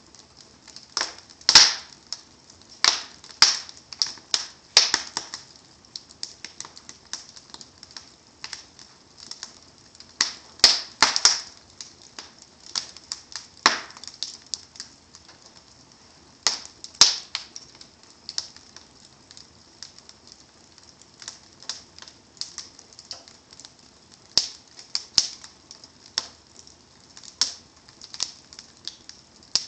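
Wood fire crackling in a fireplace, with irregular snaps and pops from the burning logs and embers. A few sharper, louder pops stand out, around two seconds in, near eleven seconds and near seventeen seconds.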